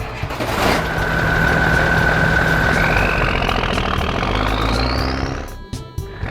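Cartoon sound effects: a steady hiss over a low hum, with a held whistle about a second in and then a whistle rising in pitch, cutting off briefly near the end.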